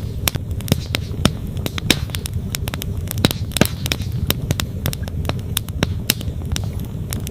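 Wood campfire crackling, with frequent irregular sharp pops of burning logs, over a steady low rush of a flowing creek.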